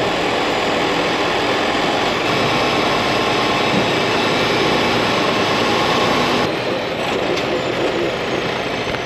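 Semi-truck's diesel engine running steadily as the rig backs into a dock, with a slight change in the sound about six and a half seconds in.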